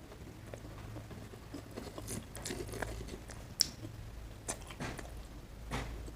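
A person chewing and eating paneer curry with roti: soft irregular mouth sounds and small clicks, with one sharp tap about three and a half seconds in, over a low steady hum.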